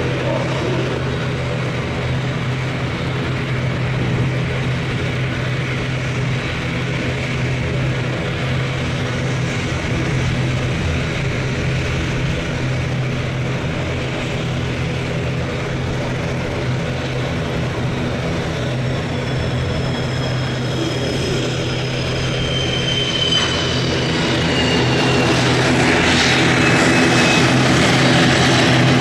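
Danish F-16 Fighting Falcon's jet engine running at low power with a steady hum. A high whine slides slowly downward in pitch in the second half, and the engine grows louder near the end.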